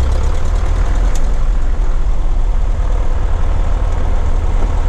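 Cessna 152's four-cylinder Lycoming piston engine and propeller running steadily, a loud, constant low drone.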